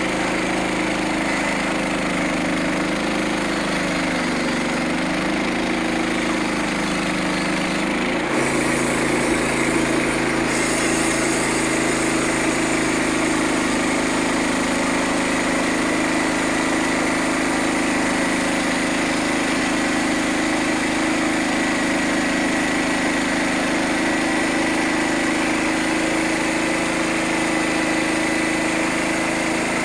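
Small gasoline engine of a band sawmill running steadily. Its pitch wavers over the first eight seconds, changes about eight seconds in, then holds steady.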